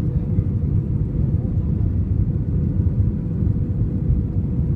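Steady low rumble of engine and airflow noise inside a jet airliner's cabin in flight, with a faint steady hum over it.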